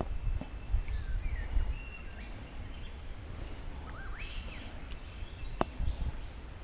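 Birds calling: a few short whistled calls that glide up and down, over a steady low rumble, with a single sharp click about five and a half seconds in.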